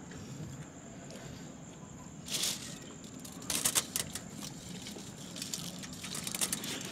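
Two short bursts of rustling about a second apart, a couple of seconds in, with a few faint clicks.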